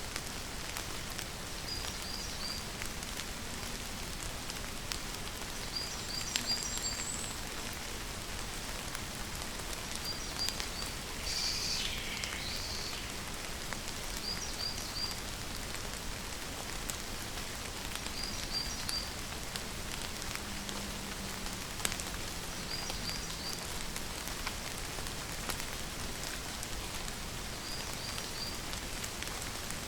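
Steady rain falling, an even patter of drops. A short, high three-note chirp repeats about every four seconds over it, and one longer falling call comes near the middle.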